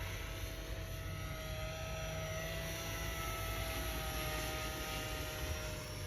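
Electric radio-controlled helicopter (T-Rex 450 with EC145 scale mechanics) flying, its motor and rotor whine holding a steady pitch that wavers slightly, with wind rumbling on the microphone.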